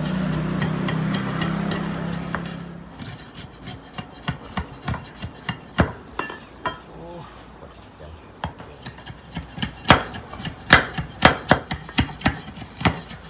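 Chopping and scraping on wood while a digging spade is made: irregular sharp knocks with rasping in between, the heaviest blows near the end. A low steady hum fades out over the first two or three seconds.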